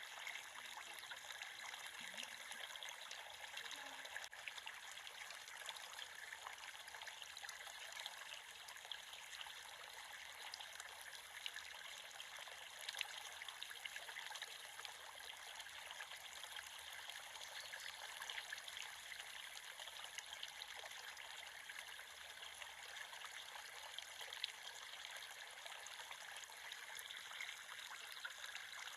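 Small creek flowing and trickling steadily over stones.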